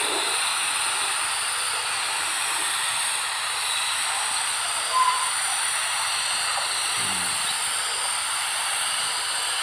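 Paint spray gun hissing steadily as it sprays a second coat onto a bird cage's bottom tray for a glossy finish.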